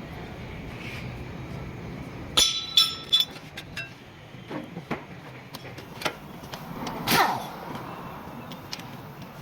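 Metal clinking and clatter of tools and brake parts during a brake pad change: three loud ringing clinks close together about two and a half seconds in, then lighter clicks and a short louder rasp later on, over a steady workshop hum.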